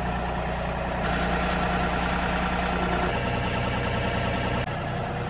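John Deere tractor's diesel engine running steadily. Its note shifts abruptly about a second in, again near the middle, and once more near the end.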